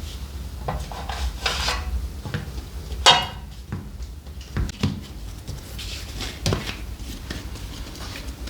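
Clinks and knocks of handled kitchenware, metal or crockery, with one loud ringing clank about three seconds in, over a low steady hum.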